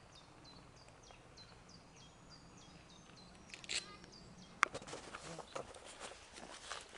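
A small songbird repeating a short high chirp about three times a second, with a louder chirping call after about three and a half seconds. From about four and a half seconds in, a sharp click, then irregular footsteps and rustling on overgrown ground.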